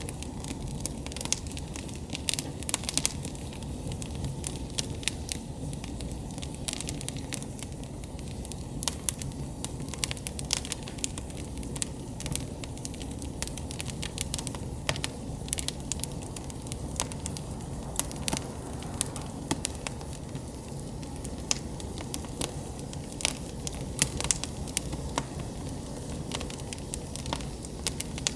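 Campfire burning: wood crackling and popping in many irregular sharp snaps over a steady low rush of flames.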